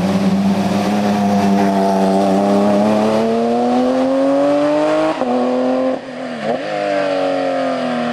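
Race car engine on a hill climb accelerating hard, its pitch climbing steadily for about five seconds, then dropping sharply at an upshift. A brief lift off the throttle about six seconds in is followed by another shift and the engine pulling again.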